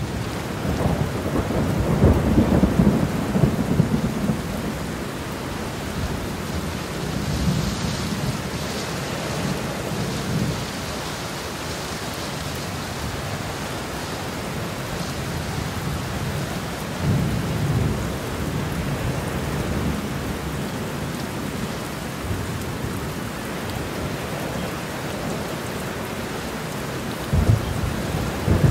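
Steady rain with low thunder rumbling several times, the strongest rumble in the first few seconds.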